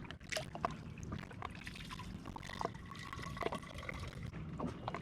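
Water being poured into a cup, trickling with a few knocks of handling, and a ringing tone about halfway through as the cup fills.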